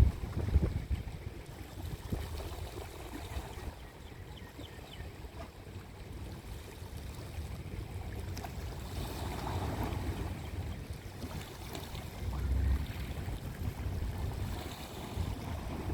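Sea surf washing in and out, with wind rumbling on the microphone; a stronger wash comes about three-quarters of the way in.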